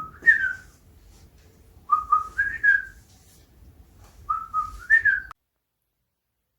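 Whistled imitation of a bird song in three short phrases about two seconds apart, each of three or four clear notes stepping upward in pitch. The sound cuts off abruptly about a second before the end.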